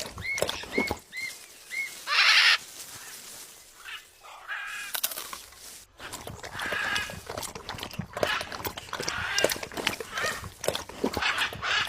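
Birds calling: a run of four short, arched chirps in the first second, a loud, noisy call about two seconds in, then a busy mix of chirps and calls.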